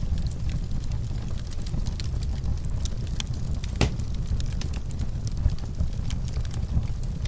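Wood fire burning in a fireplace: a steady low rumble of the flames with scattered small crackles and one sharper pop about four seconds in.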